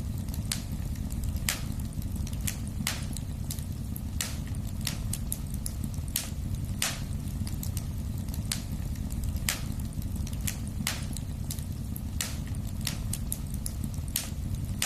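Wood fire crackling in a fireplace: sharp, irregular pops, about one or two a second, over a steady low rumble of the flames.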